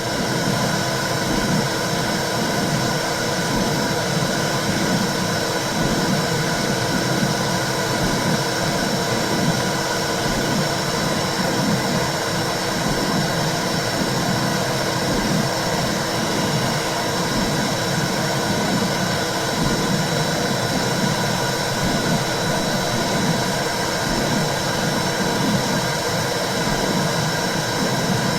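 Recorded womb sound: a steady whooshing rush with a repeating low, pulse-like throb, as of blood flow and heartbeat heard from inside the uterus.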